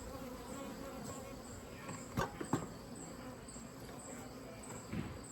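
Honeybees buzzing in a steady hum at the hive, with a high chirp repeating about twice a second over it. A few short knocks come about two seconds in and again near the end.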